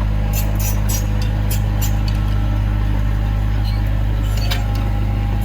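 Heavy diesel engine of earthmoving machinery running steadily at a constant pace, with a few sharp clinks or knocks over it.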